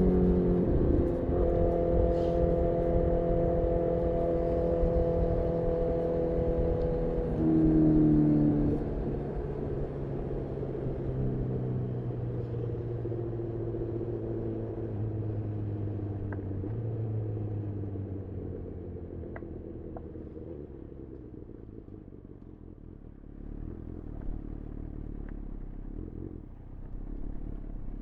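Honda CB1000R's inline-four engine through a full aftermarket Black Widow exhaust, heard from the rider's seat. Its pitch drops at the start, holds steady, swells briefly about eight seconds in, then sinks slowly and grows quieter as the bike slows, and starts to climb again near the end.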